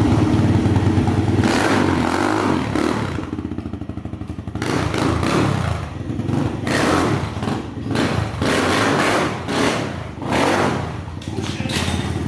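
Dirt bike engines revving at a motocross track, the sound swelling and fading in repeated surges.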